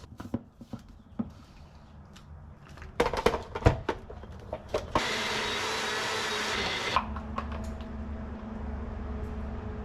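Countertop blender blending a smoothie in a short run of about two seconds, after several clicks and knocks from handling the jar and ingredients. A lower steady hum carries on after the blender stops.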